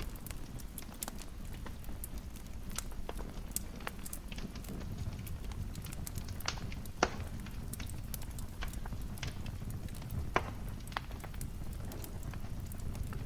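Wood fire crackling in a fireplace: irregular sharp pops and snaps over a steady low rumble of the burning fire, with two louder pops about seven and ten seconds in.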